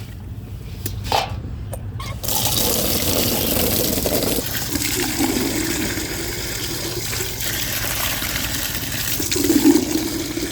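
A few light knocks, then water starts rushing steadily into a container about two seconds in, filling a poultry waterer.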